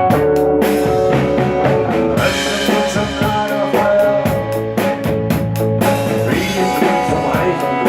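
Rock band music with a drum kit keeping a steady beat under sustained guitar or keyboard notes.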